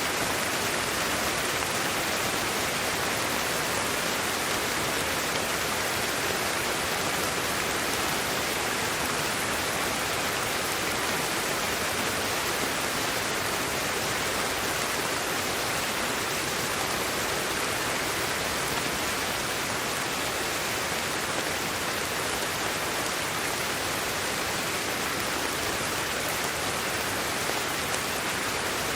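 Steady white noise for sleep: an even, unbroken hiss with no changes in level.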